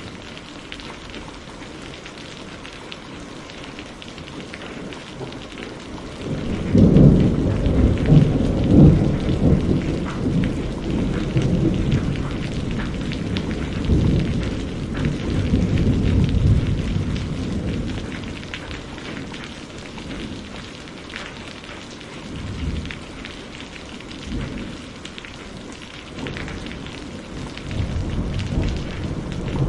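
Steady rain falling, with thunder rolling in about six seconds in: a low rumble that is loudest for the next few seconds and dies away over about ten seconds. Another rumble of thunder starts near the end.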